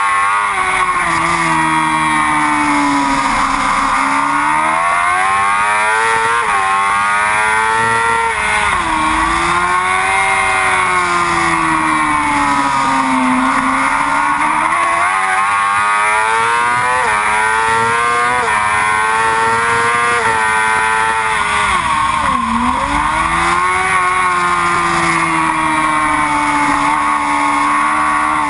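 Yamaha R6 sport bike's inline-four engine at racing revs, its pitch climbing and falling every few seconds as the bike accelerates and slows through the corners. There are sharp drops in pitch about eight seconds in and again about twenty-two seconds in.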